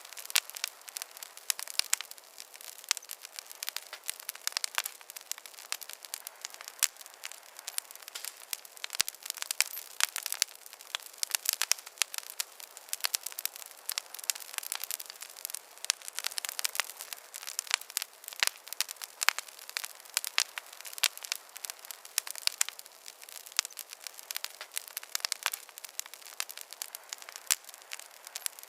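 Wood campfire burning, with continuous dense crackling and popping of many small snaps over a soft hiss.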